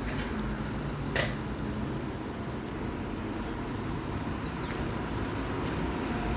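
Steady vehicle and traffic noise with a low rumble, and one short sharp sound about a second in.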